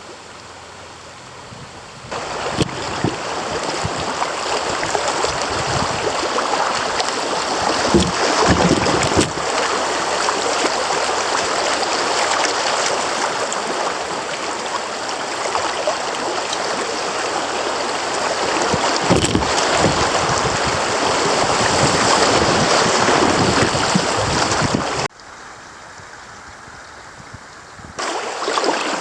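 Rushing creek water: a steady wash of noise that steps up sharply about two seconds in, cuts down suddenly near 25 seconds and comes back just before the end.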